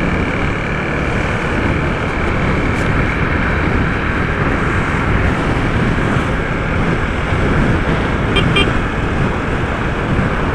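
Steady road and traffic noise with a heavy wind rumble on the microphone. A few short high beeps sound about eight and a half seconds in.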